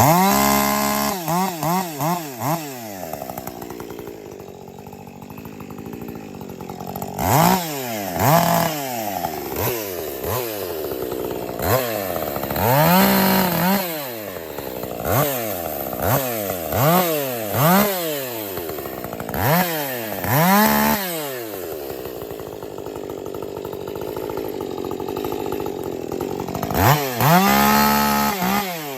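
A 50 cc-class two-stroke chainsaw idling and being revved again and again in short throttle blips, with a few longer held revs near the start, around 13 seconds and near the end.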